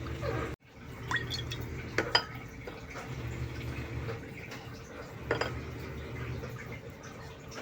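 Dishes and utensils clinking in a kitchen: a few sharp clinks with a short ring, the loudest about two seconds in and again past the middle, over a steady low hum.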